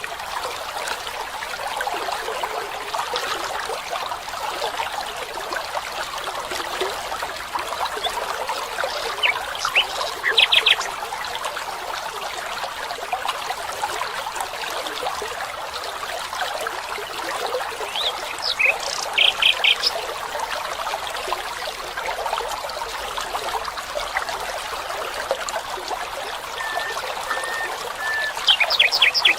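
Steady trickling of a small forest stream, with short clusters of quick high chirps about a third of the way in, about two-thirds in, and again near the end.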